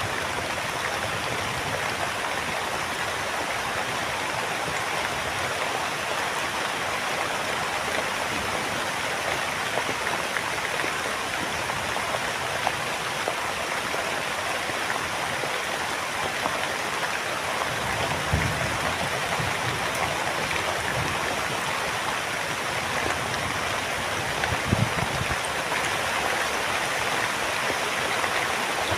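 Heavy rain falling steadily, an even rushing hiss. A couple of brief low thuds come in the second half.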